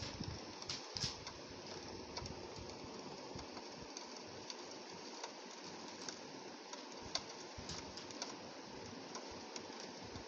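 Rain falling steadily: a constant hiss with many small drops tapping irregularly on window glass, a few louder taps about a second in.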